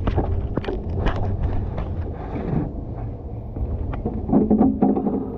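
Low, uneven wind rumble on the microphone with several sharp knocks and handling bumps. A brief pitched sound comes in about four seconds in.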